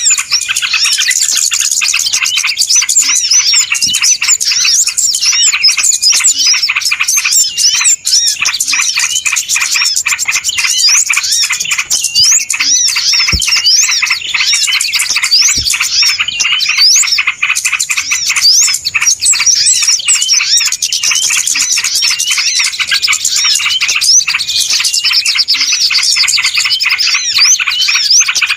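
Dense, continuous chorus of many small birds chirping and twittering at once, with rapid overlapping high calls: a recorded bird-lure call (pikat) used to draw small birds in.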